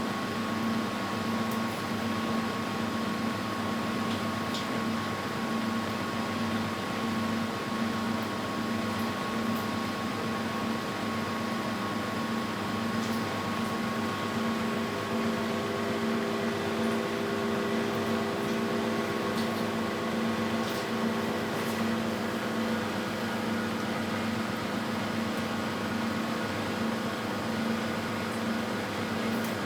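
Philco Bendix W84RX front-loading washing machine spinning at a steady speed: a constant motor hum with a low, evenly pulsing drone.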